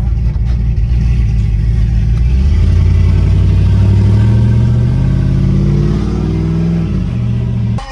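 Pickup truck engine accelerating: a loud engine note climbs steadily in pitch from about two seconds in, drops back near the end, then cuts off suddenly.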